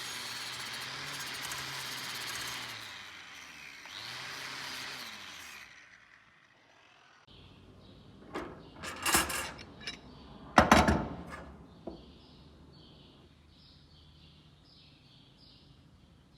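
Handheld electric power tool running with a rough scrubbing sound. It winds down about three seconds in, runs again briefly and stops before six seconds. A few loud knocks and clatter of handled metal follow near the middle, then faint high chirps repeat about twice a second near the end.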